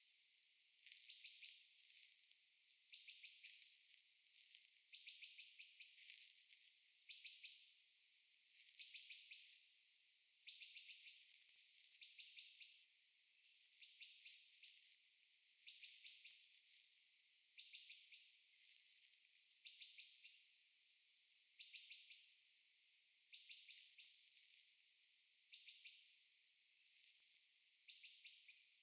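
Faint, insect-like chorus: high pulsed trills repeating about every two seconds over a steady high hiss.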